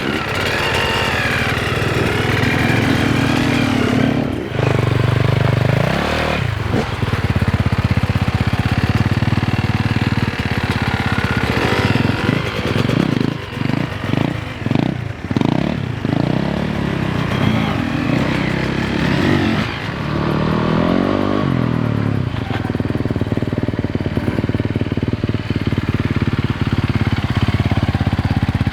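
Enduro dirt-bike engines running and revving, the revs rising and falling several times as the bikes pull away.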